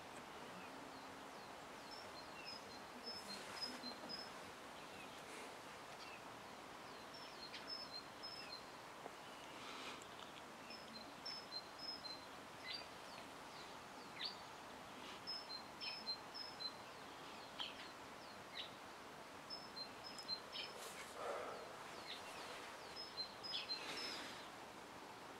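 Quiet outdoor ambience with small birds chirping: short high notes in quick groups of four or five, repeating every few seconds. A few brief soft rustling noises rise over the hiss, the plainest of them near the end.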